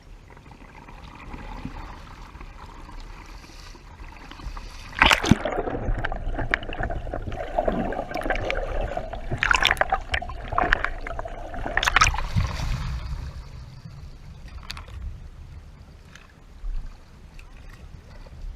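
Water splashing around a kayak as it is paddled, with three louder splashes: the first about a quarter of the way in, the second around halfway and the third a little later, before it settles to gentler lapping.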